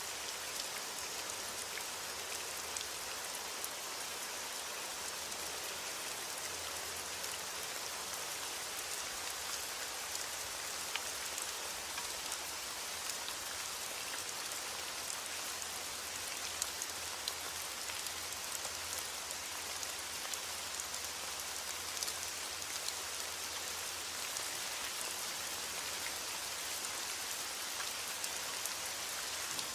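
Heavy rain on a window: a steady, dense hiss of rain, with many scattered sharp ticks throughout.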